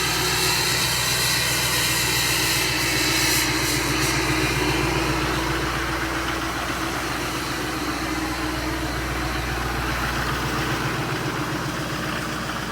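2015 Duramax 6.6-litre V8 turbo-diesel idling steadily while it warms up after a cold start in deep subzero cold.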